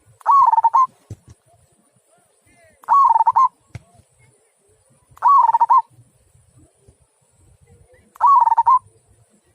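Zebra dove cooing: four short phrases, each about half a second long and made of rapid pulsing notes, spaced about two and a half seconds apart.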